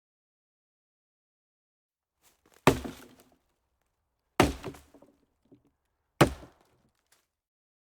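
Three sharp impacts, evenly spaced under two seconds apart, each dying away within about half a second, with silence between them.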